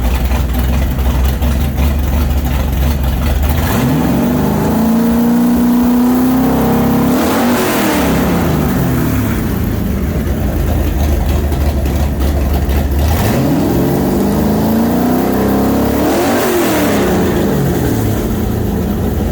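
Freshly built Ford 427 Windsor V8 with a roller cam, running after its carburetor mixture and timing have been set. It idles, is revved up twice and held a couple of seconds each time, about four seconds in and again about thirteen seconds in, then drops back to idle.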